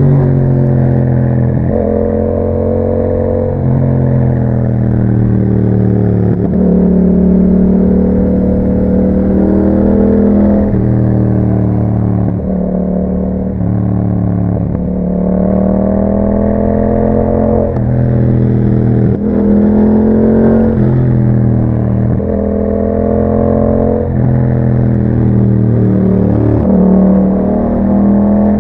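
Yamaha MT-07's 689 cc parallel-twin engine through an aftermarket Akrapovic exhaust, pulling hard while riding. The pitch rises in each gear and drops sharply at each gear change, every two to three seconds, with the revs falling off briefly a couple of times.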